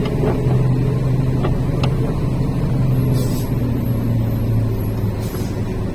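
Truck engine running steadily with a low drone, heard from inside the cab, with two short hisses about three and five seconds in.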